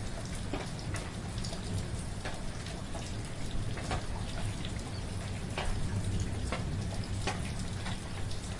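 Soft, steady rain falling, with scattered individual drops striking close by and a low steady rumble underneath.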